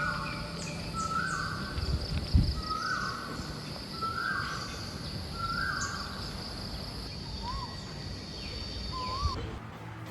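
A bird calling over and over, one call about every one and a half seconds, with a steady high-pitched tone beneath; a low thump about two and a half seconds in.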